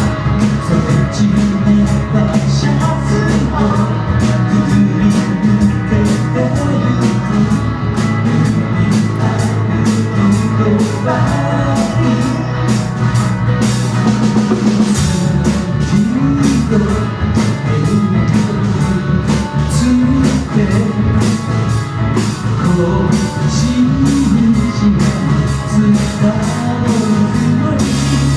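Live rock band playing a song: a drum kit keeps a steady beat over bass and electric guitar.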